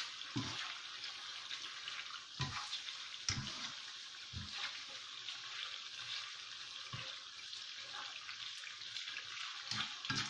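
Shredded chicken and onion sizzling steadily in oil in a non-stick frying pan as it is dry-fried into chicken floss, with a few soft knocks of plastic tongs stirring against the pan.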